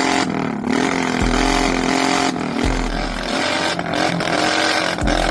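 Motorcycle engine running and being revved, its pitch wavering up and down.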